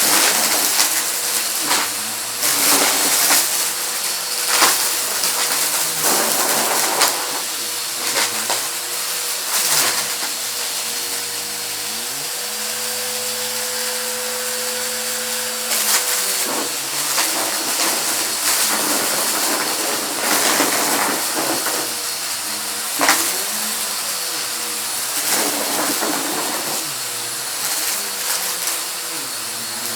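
Vacuum cleaner running with a steady rushing hiss and motor whine, while small hard debris is sucked up and clatters through it in frequent sharp clicks and rattles.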